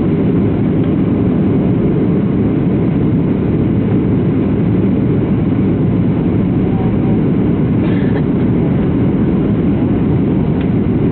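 Steady cabin noise inside a Boeing 737-700 airliner in flight: the even, low rumble of its CFM56-7B engines and airflow past the fuselage, heard from a window seat.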